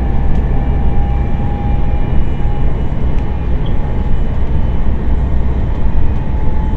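Eurobahn electric multiple-unit train heard from inside the passenger compartment at high speed under acceleration: a steady loud rolling rumble with a faint steady whine from the traction motors over it.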